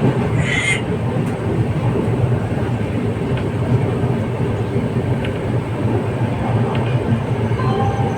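Passenger train running on rails: a steady, loud rumble of wheels on track, with a brief hiss about half a second in.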